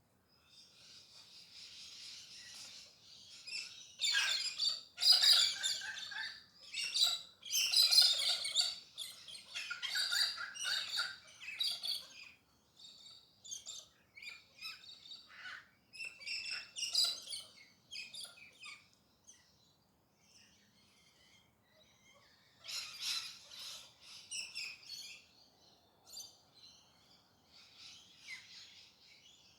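A flock of galahs (pink-and-grey cockatoos) calling with harsh, screechy calls. The calls come in bursts, loudest and busiest from about four to twelve seconds in and again around twenty-three seconds in, with scattered single calls between.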